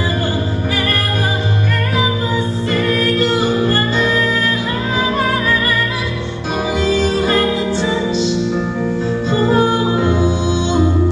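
A woman singing over a sustained instrumental accompaniment, her voice gliding between held notes.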